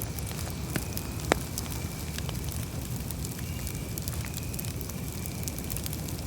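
Campfire burning: a steady low rush of flames with scattered sharp crackles and pops, one louder pop a little over a second in.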